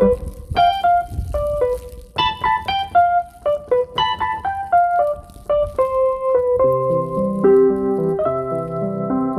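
Keyboard music: a slow melody of single notes, with sustained lower chords joining in about two thirds of the way through.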